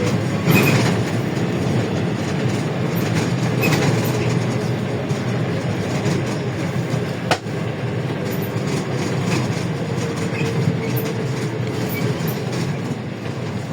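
Inside a LiAZ-677M bus on the move: a steady low drone from the engine and road, with the body and fittings rattling and clicking throughout, and one sharp knock about seven seconds in.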